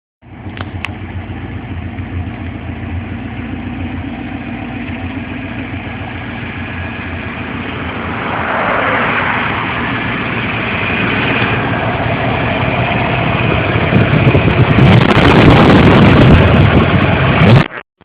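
1984 Ford Thunderbird's 5.0-litre V8 running, steady at idle at first, then rising in engine speed about eight seconds in and louder again from about fourteen seconds. The sound drops out briefly near the end.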